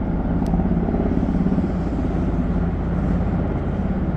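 Helicopter running on the ground before lift-off: a steady low engine hum with a fast, even rotor chop.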